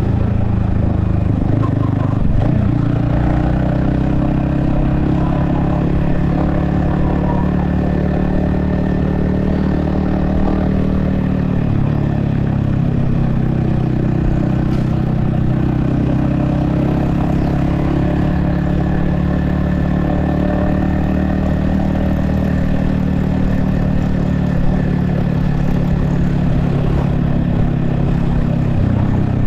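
Yamaha XSR155's 155cc single-cylinder engine running under way, its note shifting up and down a few times with throttle changes.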